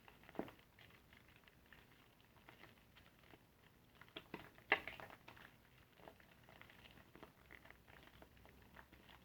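Soapy car sponge being squeezed and worked, with faint wet crackling and squishing of the lather and a few louder squelches, the loudest a little under five seconds in.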